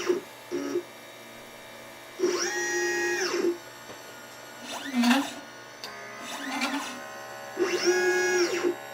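Stepper motors of a LitePlacer pick-and-place machine whining as they drive the head between moves. Each move's pitch rises, holds and falls. There are long moves about two and eight seconds in, and shorter ones in between.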